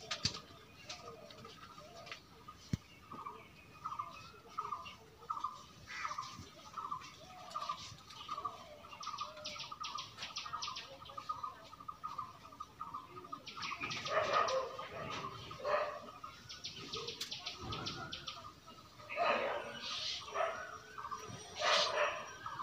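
Birds chirping: a short call repeated about twice a second, with bursts of quicker, higher twittering now and then.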